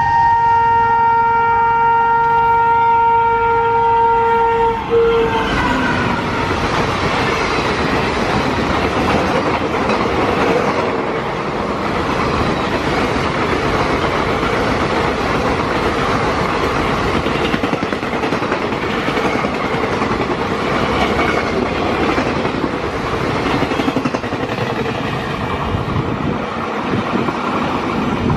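Locomotive horn sounding one long steady blast that stops about five seconds in. It gives way to the loud rumble and wheel clatter of a long passenger train passing at speed.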